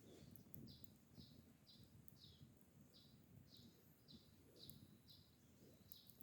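A small bird calling, faint, one short high note repeated steadily about twice a second, over a soft low crackle.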